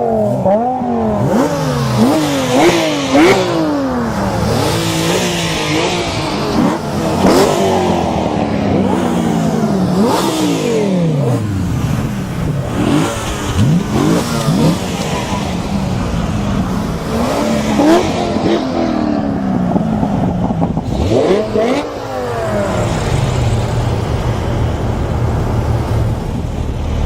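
High-performance sports car engine being revved with a loud exhaust: quick repeated throttle blips at first, then longer rises and falls in pitch, settling into a steady low run near the end.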